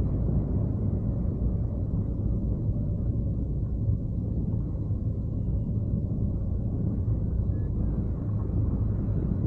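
Steady low rumble of airflow buffeting the microphone in hang-glider flight.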